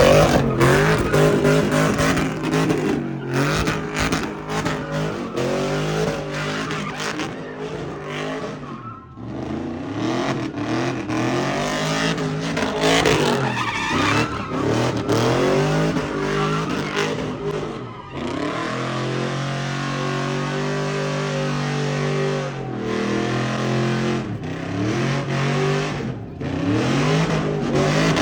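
A car engine revving hard while its tyres spin and screech in a burnout. The revs rise and fall again and again, and are held high and steady for a few seconds past the middle before dropping back.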